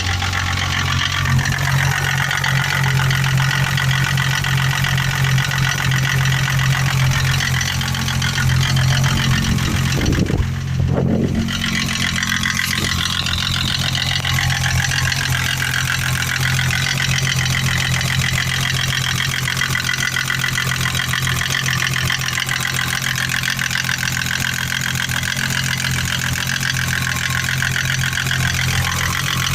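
M20 engine idling steadily with a regular knock, the knock being the fault under investigation. About ten seconds in, the engine speed rises briefly and drops back.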